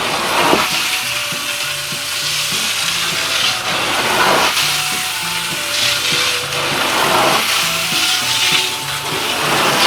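Carpet extraction wand hissing across wet carpet in repeated strokes, a swelling whoosh every couple of seconds, as it pulls pre-treated urine and soil out of the pile. Background music plays underneath.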